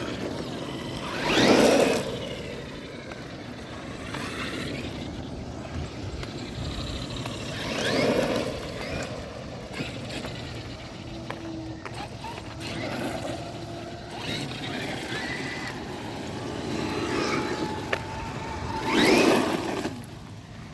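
Electric RC car motor whining up in pitch as the car accelerates, in three separate runs: about a second in, around eight seconds in, and near the end.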